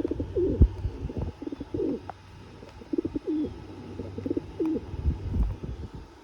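Pigeon cooing, a series of low, bending coos repeated about half a dozen times, with a few low thumps, the loudest about half a second in.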